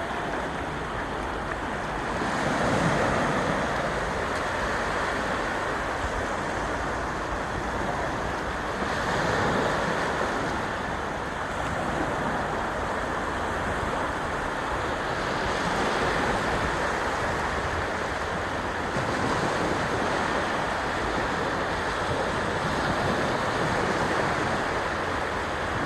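Sea waves breaking and washing on the shore, swelling and easing every few seconds, with some wind on the microphone.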